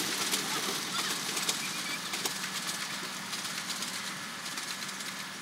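Passenger train rolling away into the distance, its wheel and track noise fading steadily, with birds chirping now and then.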